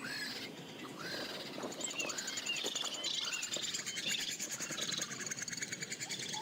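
Small birds chirping: many short rising-and-falling chirps, joined by a fast, rapidly repeated trill from about a second and a half in.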